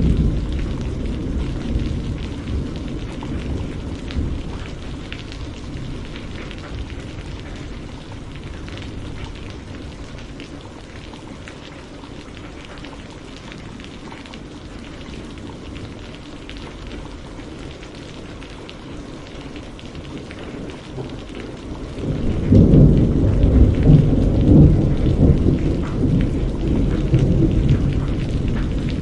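Steady rain falling, with rolls of thunder: a deep rumble dies away slowly at the start, and another loud rumble breaks in suddenly about three quarters of the way through and keeps rolling.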